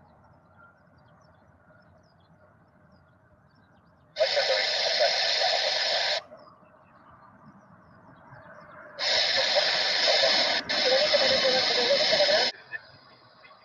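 Two bursts of air traffic control radio from an air-band receiver, loud and hissy, each keyed on and off abruptly: one about two seconds long, then one about three and a half seconds long with a brief break in the middle.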